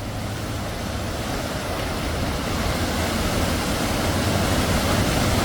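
Steady rushing of a waterfall pouring into a narrow canyon, an even roar that grows slowly louder.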